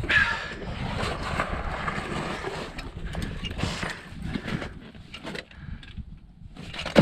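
Close-up scuffing and scraping of a climber's shoes and hands on sandstone during a descent down a steep scramble, with irregular small knocks and rustling of clothing and gear.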